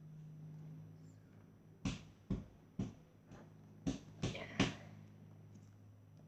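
Slime being squeezed and worked by hand, giving a run of about seven sharp pops over a few seconds, over a steady low background hum.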